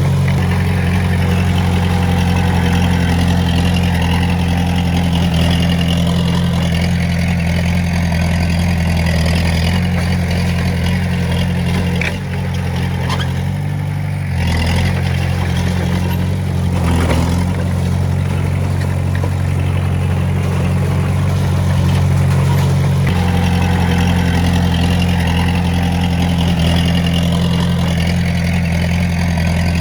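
Diesel engine of a Komatsu D20A bulldozer running steadily, easing off briefly about twelve seconds in and picking up again, with a few light knocks.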